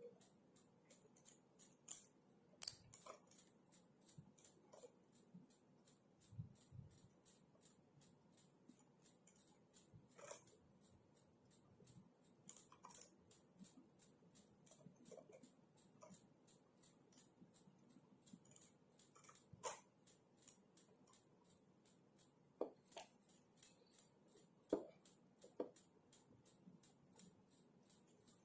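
Faint computer keyboard typing: a steady run of soft key clicks at about three a second, with a few louder strokes scattered through.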